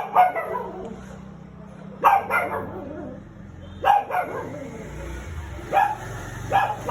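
Shih Tzu barking, with short sharp barks coming singly or in pairs every couple of seconds.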